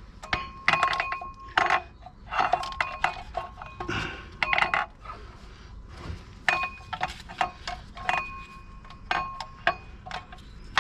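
Metal tools and car parts clinking and knocking together in irregular strikes, several ringing on briefly like struck steel.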